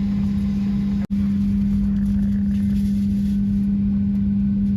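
Steady airliner cabin drone: a constant low hum over a rumble, cutting out for an instant about a second in.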